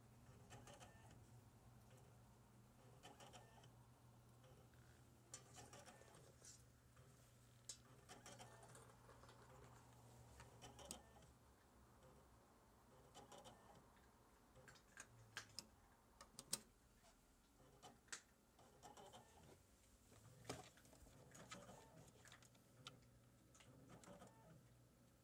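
PC that keeps restarting and will not turn on, giving faint, irregular clicks and ticks over a low steady hum, as if something inside is moving.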